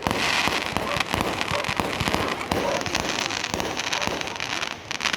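Fireworks going off in a dense run of rapid crackling pops and bangs.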